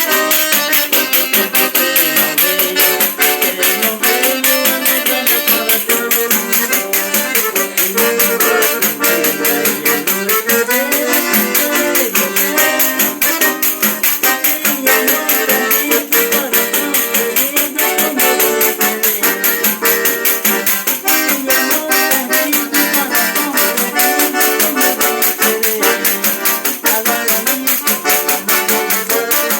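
Accordion playing a melody and chords over a fast, steady pandeiro beat, the frame drum's jingles rattling on every stroke.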